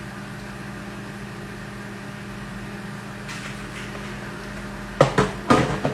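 A steady hum from a kitchen appliance, then three sharp knocks of kitchenware on the counter about five seconds in.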